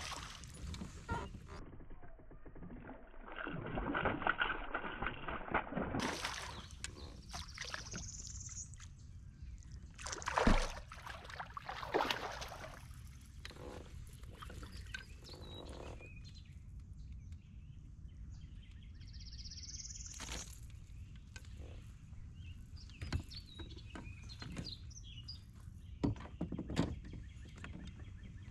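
Scattered knocks and handling sounds aboard a kayak on the water, with water noise and two short rising high calls, likely birds.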